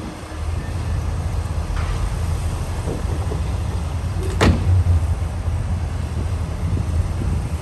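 Heavy diesel construction machine running steadily with a low rumble, with one sharp metallic clank about four and a half seconds in.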